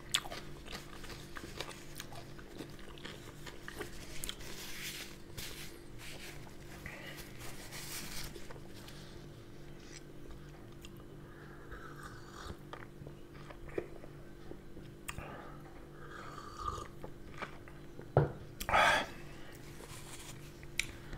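A man chewing and biting food close to the microphone: soft, wet mouth sounds with scattered small clicks and a few louder bites near the end, over a steady low hum.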